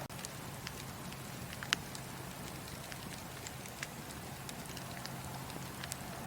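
Wood fire crackling in a fireplace: irregular sharp pops and snaps over a steady hiss, the loudest pop a little under two seconds in.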